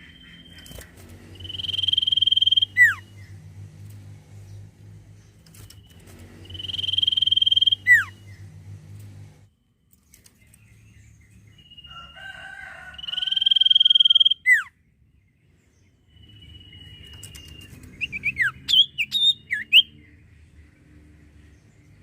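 Common iora (cipoh, sirtu) singing: three long, level whistles that swell and each end in a sharp falling note, then a quick run of short sliding chirps near the end. It is the kind of song bird keepers play to lure other birds into singing.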